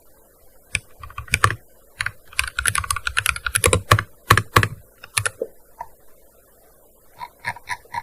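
Typing on a gaming keyboard: scattered keystrokes, then a dense, fast run of them in the middle, a pause of well over a second, and a short flurry near the end.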